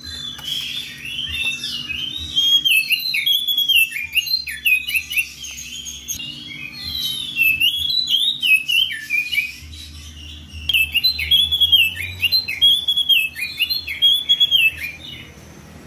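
Oriental magpie-robin singing loud, full song: fast runs of varied whistled notes with sharp high chips, with a short pause about two-thirds of the way through. It is the bird's territorial song calling out a rival.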